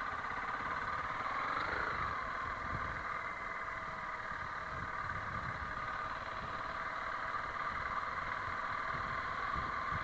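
Honda CRF300L Rally's single-cylinder engine running steadily at low revs.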